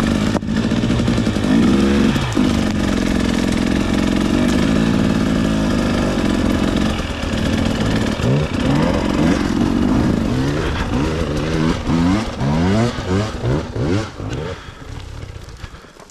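Two-stroke 300 dirt bike engine running at a steady throttle, then revved up and down in quick repeated blips for several seconds, dropping away near the end.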